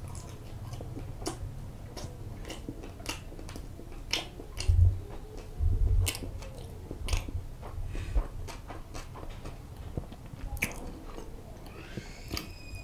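Close-miked biting and chewing of onion pizza: repeated wet mouth clicks and crunches, with a couple of loud, dull thumps about five and six seconds in.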